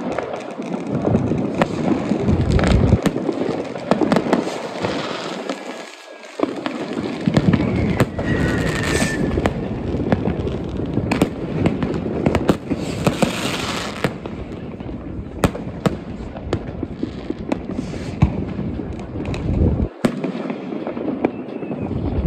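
Fireworks and firecrackers going off densely, a continuous crackle of overlapping bangs, with a short whistle about eight seconds in.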